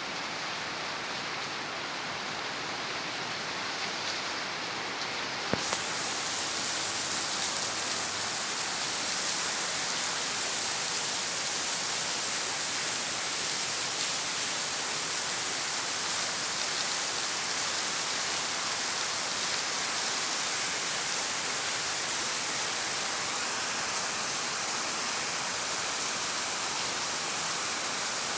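Heavy rain falling steadily, a dense even hiss of downpour. A single sharp click about five seconds in, after which the rain sounds slightly louder.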